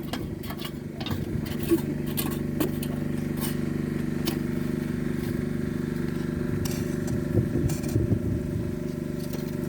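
A motor running steadily with an even hum, with brief voices in the background.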